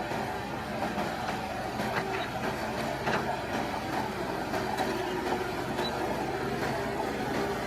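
Heavy earthmoving machinery's diesel engine running steadily, with irregular metallic clanks and rattles over it.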